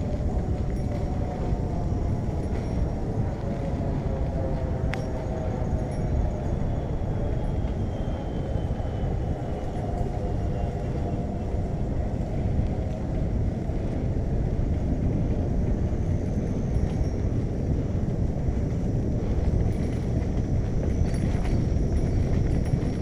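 Steady wind rush and road rumble from a bicycle in motion, with a couple of brief clicks.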